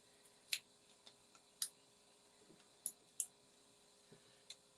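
A handful of faint, separate light clicks and taps from card-making pieces being handled and pressed into place on a worktable.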